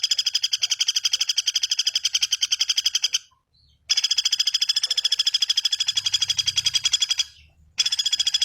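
A bird's rapid trill of evenly repeated high notes, about a dozen a second, in three bouts broken by short pauses about 3 and 7 seconds in, played from a bird-song training recording.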